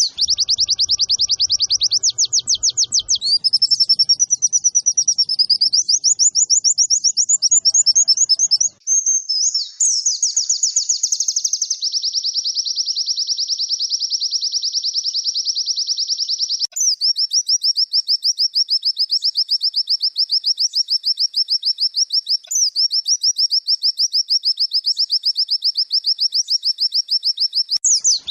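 Pleci (white-eye) song recording: a loud, unbroken run of very fast, high trills and chattering, switching abruptly to a new phrase pattern several times, as in an edited loop. It is a masteran, a training recording played to caged white-eyes to get them singing.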